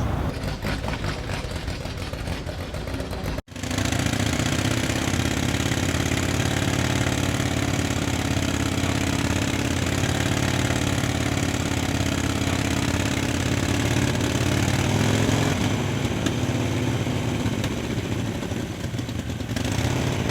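Vintage motorcycle engine running steadily, after a short clattery stretch and an abrupt cut about three seconds in.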